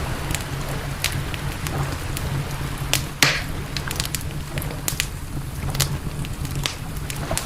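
Campfire crackling, with frequent sharp pops and one louder pop that trails off in a brief hiss about three seconds in, over a steady low rumble.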